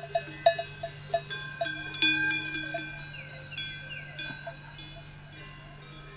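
Metal bells clanking at irregular moments, several pitches ringing on and overlapping. The loudest strikes come in the first two seconds, and the ringing fades after that.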